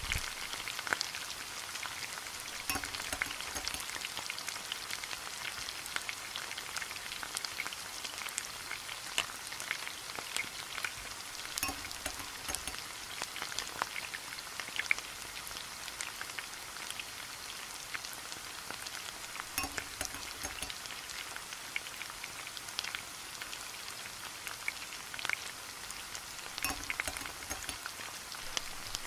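Frying in hot coconut oil in a nonstick pan: a steady sizzle full of small crackles and pops as the mustard seeds, onions and spices fry, with a few soft knocks from the wooden spatula.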